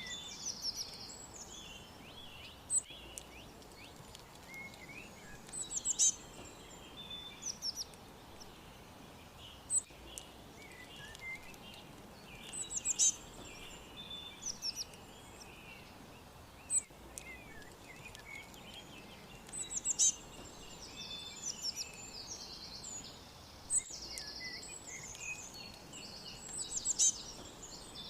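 Several songbirds chirping and twittering: high, quick calls and short trills over a faint steady hiss. The same sequence of calls comes round about every seven seconds, like a short recording looped.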